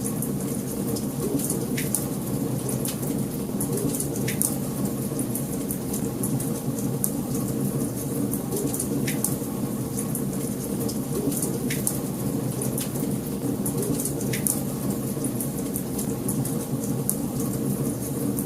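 Wood fire burning in a fireplace: a steady low rumble with irregular sharp crackles and occasional louder pops.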